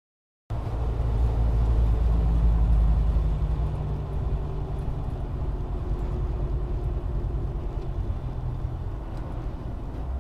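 A car's engine and road noise, a steady low drone with a faint steady hum, starting abruptly about half a second in, with no crash or impact.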